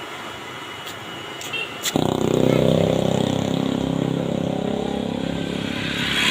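A motor vehicle engine runs close by. It starts abruptly about two seconds in and stays loud, its pitch slowly falling. A few short clicks come before it.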